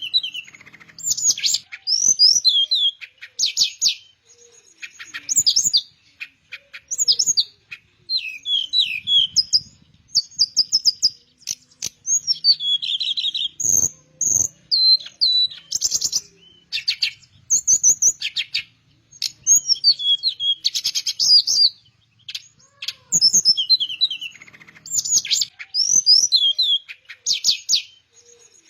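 Teledekan flycatcher singing: a string of quick, high whistled phrases and trills, each about a second long with short pauses between. A faint knock about halfway through.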